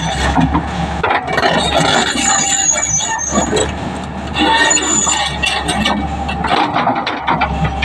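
Heavy road-construction machinery working, with loud high-pitched metallic squealing and scattered clanks over a steady low engine hum.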